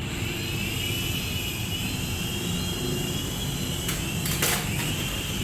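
Small electric motor and propeller of a toy remote-control airplane running under throttle with a steady high-pitched whine. A couple of short knocks come just before the end.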